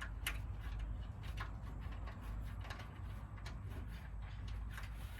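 Scattered light clicks and taps, about five in all, from hand work on the tractor's old spotlight and its mount, over a steady low rumble.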